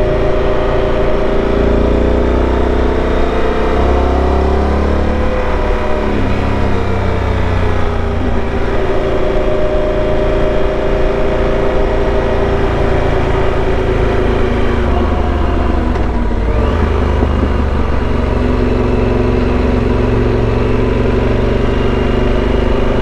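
Motorcycle engine running under way, its pitch climbing over the first few seconds, dropping suddenly about six seconds in, and rising and falling again as it revs and shifts.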